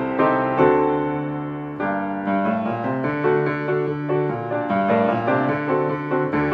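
Piano music: chords and melody notes played one after another at a steady pace.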